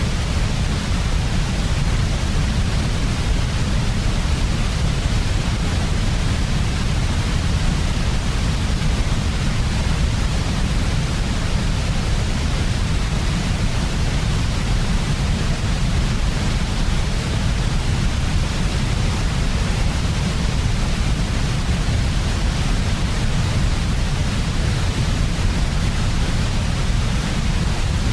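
Steady, unchanging synthetic noise played as white noise for a baby's sleep: an even hiss with a deep rumble underneath, with no breaks or changes.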